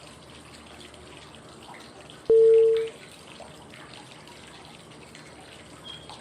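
Steady flowing-water white noise, with a single loud short cue tone at one steady pitch about two seconds in, lasting about half a second. The tone is the breathing prompt that marks the switch to the next five-second phase of inhale, hold or exhale.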